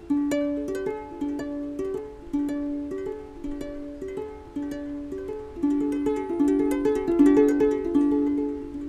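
Small, high-pitched plucked string instrument playing a picked melody, each note struck cleanly and left to ring and fade, growing louder for a run of notes near the end.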